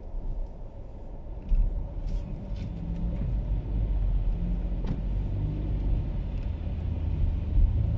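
A car running with a steady low rumble that grows louder about a second and a half in, with a few light clicks and one sharper click midway.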